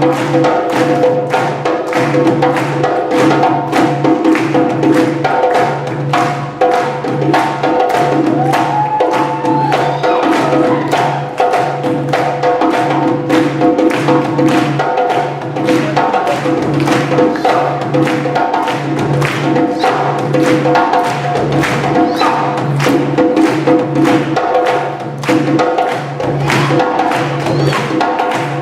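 Live hand-drum ensemble playing a fast, steady West African rhythm: dense drum strokes over a low drum beat that repeats about once a second.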